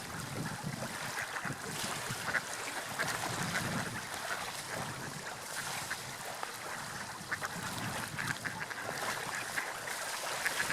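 Water lapping and splashing, a steady wash of noise broken by many short splashy flecks.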